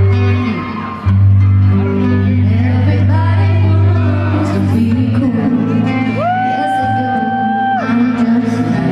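Live pop ballad in a large hall: deep sustained bass notes and instruments under a woman's singing, with a long held note that slides up about six seconds in and holds for under two seconds.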